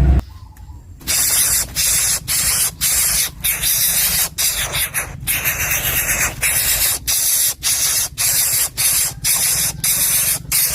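Coucal chick hissing harshly in a rapid series, about two hisses a second, starting about a second in.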